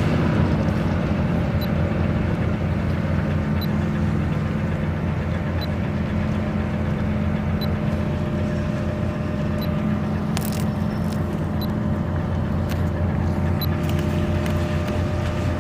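Steady low drone of a berthing cargo ship's engines, with a faint high tick about every two seconds and a few clicks after the middle.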